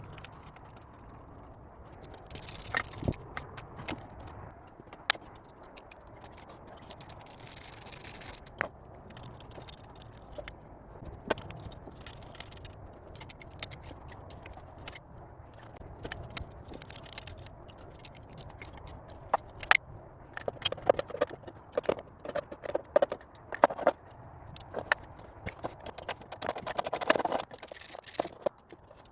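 Hand tools clicking, tapping and scraping on metal as a spark plug is worked out and refitted, with two short hisses in the first third and a dense run of quick clicks near the end.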